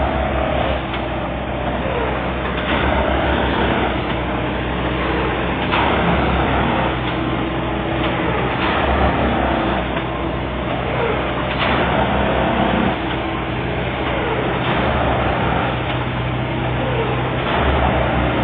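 Plasser & Theurer 09-32 CSM Duomatic track tamping machine at work: its diesel engine runs steadily under a repeating cycle of knocks and short falling tones every couple of seconds as it works along the track.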